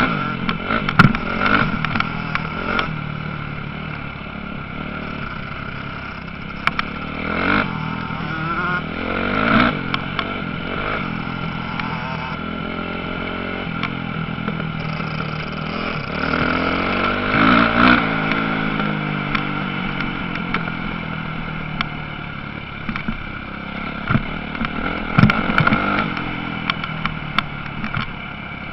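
Motocross bike engines revving and passing, their pitch repeatedly rising and falling as riders work the throttle, with scattered clatter.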